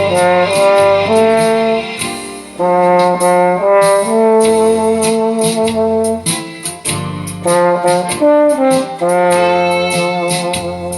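Trombone playing a slow melody of held notes over a backing track with a steady beat.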